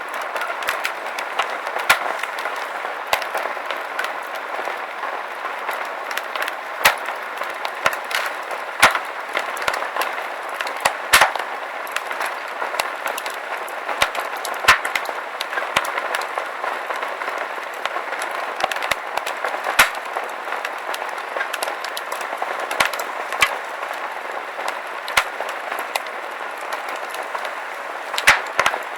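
Fire crackling: a steady hiss with irregular sharp pops and snaps, a few of them louder than the rest.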